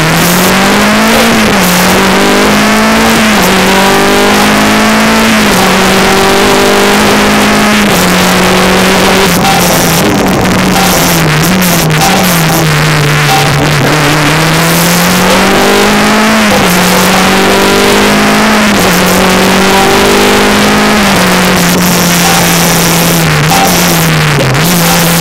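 Rally car engine heard from inside the cabin, accelerating hard from the stage start and running flat out. Its pitch climbs and drops back again and again as it changes up through the gears and lifts for bends, over steady tyre and road noise.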